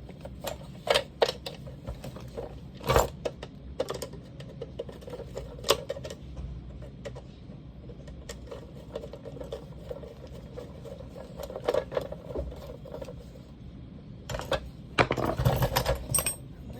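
Hand-tool work on a pneumatic siding nailer being reassembled: a Phillips screwdriver and small metal parts giving scattered clicks and taps, with a busier run of clicking near the end.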